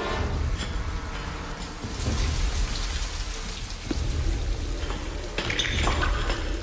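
Heavy rain pouring down steadily over a deep low rumble.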